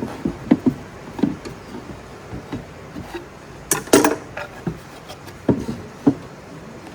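Irregular knocks and light clatter, about a dozen, from wood being handled on a workbench, with a louder double knock about four seconds in.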